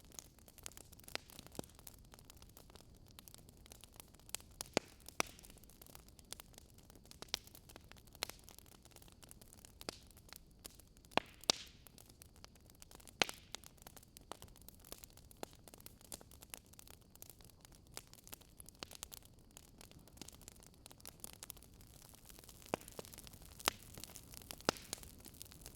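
Wood fire crackling in a fireplace: irregular sharp pops and snaps, a few louder than the rest, over a faint steady hiss of storm wind.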